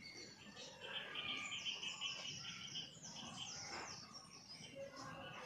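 Small birds chirping and twittering, with quick runs of repeated high notes that are busiest from about a second in until near four seconds.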